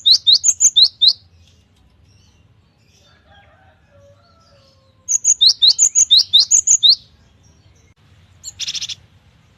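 Cinereous tit (gelatik batu) singing: two bursts of quick, repeated, high whistled notes, the second longer. A short harsh, buzzy call follows near the end.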